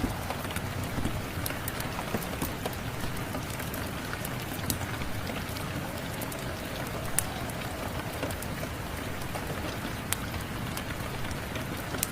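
Steady rain falling, mixed with the scattered sharp pops and crackles of a wood fire burning in a fireplace.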